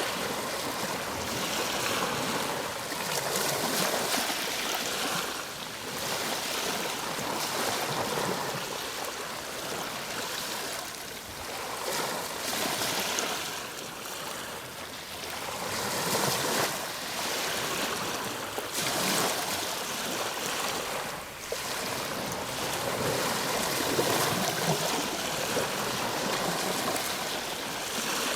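Ocean waves breaking and washing onto a shore: a continuous rush of surf that swells and eases every few seconds.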